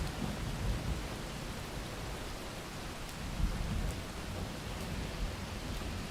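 Steady rain with a low, rolling thunder rumble that swells and fades, and a few faint light clicks.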